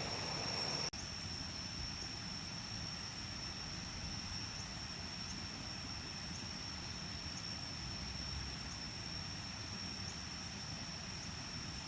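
Insects calling outdoors: one steady, high-pitched drone holds over a low rumble of background noise, with a brief sharp break about a second in.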